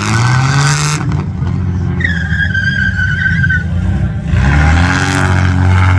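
Car engine revving hard and tyres squealing. The engine rises in pitch near the start, a steady high squeal holds for about a second and a half in the middle, and the engine revs up again about four seconds in.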